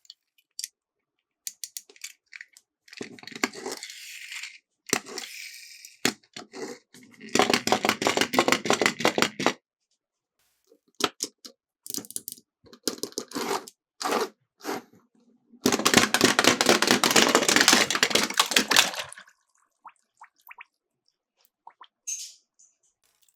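Miniature toy cars rattling and clattering down a plastic slope in several runs, two of them long, dense rattles of rapid clicks, with single clicks and knocks between.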